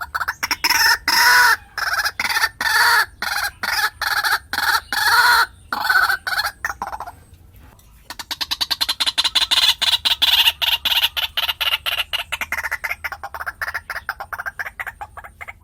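White-breasted waterhen calling: a run of repeated harsh pitched notes, a pause of about a second near the middle, then a faster, even series of notes. This is the call used as a lure to draw waterhens.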